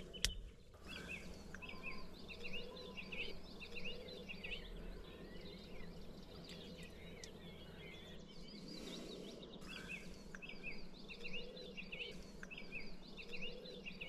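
Wild birds calling with runs of rapid, high, repeated chirps over a low, steady background rumble; a single sharp click just after the start.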